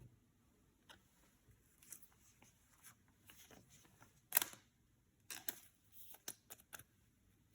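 Yu-Gi-Oh! trading cards and their packaging handled by hand: scattered soft clicks and rustles, the loudest a little past four seconds in, then a quick run of clicks.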